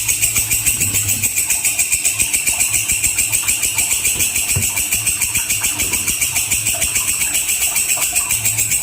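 Walang kecek katydid stridulating without pause: a sharp, high, rasping buzz pulsing about six times a second. A faint low hum runs underneath.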